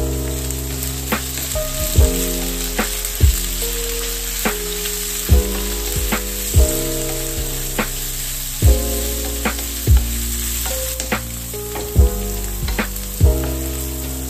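Green beans sizzling as they fry in a nonstick wok, tossed now and then with a wooden spatula. Background music with a steady beat plays over it.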